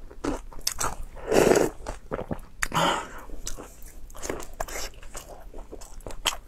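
Close-miked eating sounds of a soft sausage being bitten and chewed: many short wet clicks and smacks, with a louder noisy mouth sound about a second and a half in.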